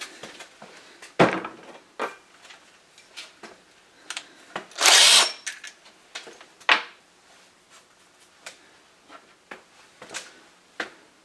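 Scattered clicks and knocks of tools and hardware being handled, with a short burst from a cordless drill about five seconds in.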